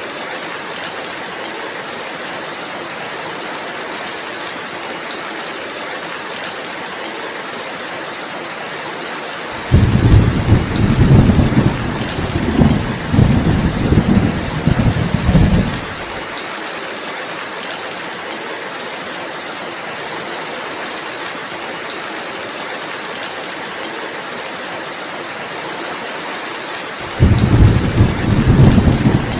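Steady rainfall hissing evenly, with two rolls of thunder. The first rumble starts suddenly about a third of the way in and lasts about six seconds. The second begins near the end.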